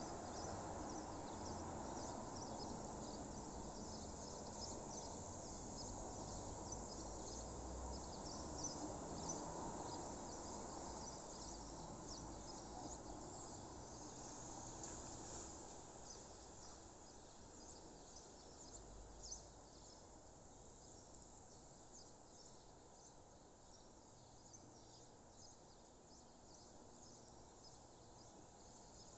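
Dawn countryside ambience: many short, high bird chirps over a low, steady rumble that fades to a quieter background about halfway through.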